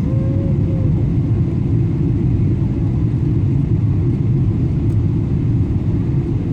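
Steady low rumble of a Boeing 777-200's engines and airflow, heard inside the passenger cabin.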